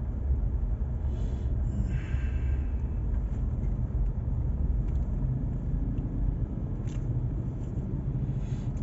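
Steady low rumble of a car's engine and road noise heard from inside the moving car's cabin, with a few faint clicks.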